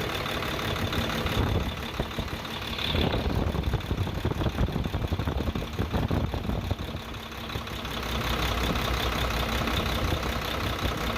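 Hino H07D six-cylinder diesel truck engine idling steadily, running again with its broken cylinder liner repaired.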